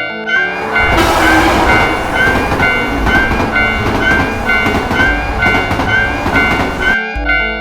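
A train passing by, a loud rushing rumble that comes in about a second in and cuts off suddenly near the end. Background music with a repeating pitched figure plays on underneath.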